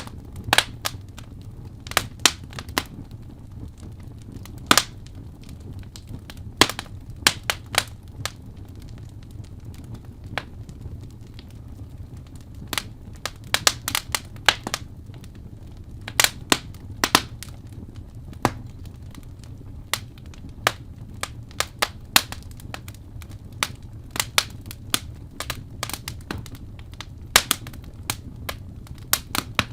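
Wood fire burning in a fireplace: irregular sharp crackles and pops, sometimes several in quick succession, over a low steady rumble.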